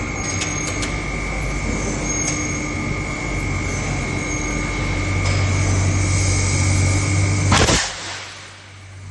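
Pneumatic degating hammer (WEIJING QC295P) running, its rapid blows and air making a loud, steady noise with a low hum and a few sharp clicks. About seven and a half seconds in comes one short, very loud blast, then the noise drops away sharply.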